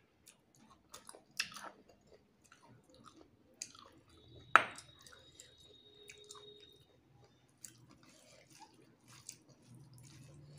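A person chewing a mouthful of rice and fish, with small wet mouth sounds and scattered clicks as food is mixed by hand on a plate. One sharp click comes about halfway through.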